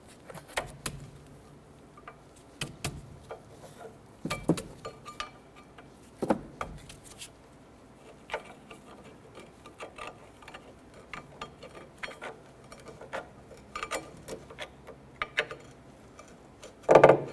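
Light metallic clicks and scrapes of brake pads being slid out of the caliper bracket's slide shims, irregular taps spread through, with a louder clatter near the end.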